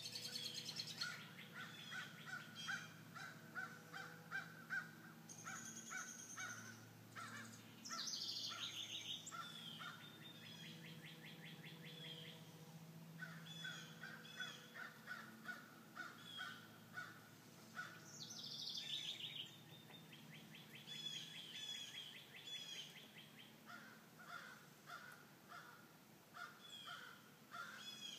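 Faint, squeaky-toy-like calls of an unidentified bird, given in bouts of quick repeated short notes with brief pauses between them. About 8 seconds in and again near 19 seconds, a higher call slides downward.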